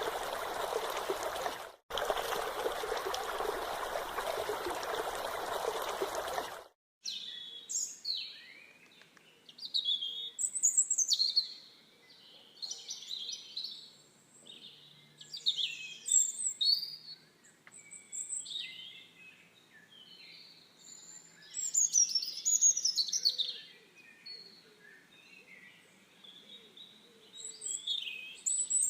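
Steady rush of flowing water, like a stream, with a brief break near two seconds. About six and a half seconds in it cuts abruptly to birds singing, many quick chirping phrases coming in bursts.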